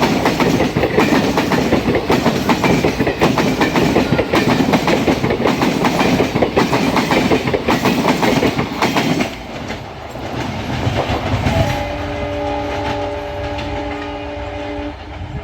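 Passenger coaches of an express train passing close at speed, wheels clattering over the rail joints, until the end of the train goes by about nine seconds in. Near the end the WDP-4B diesel locomotive's horn, now well ahead, sounds one long blast of several notes at once for about three seconds.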